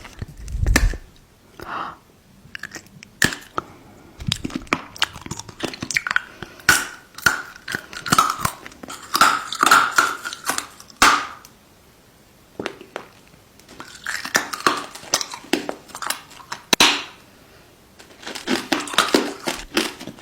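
Close-up chewing and crunching of food, with sharp crackly bites in irregular bouts and two short pauses.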